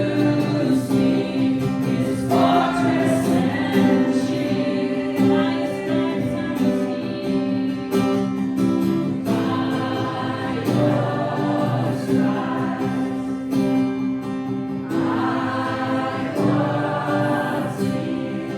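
Worship song with a group of voices singing together over strummed acoustic guitar.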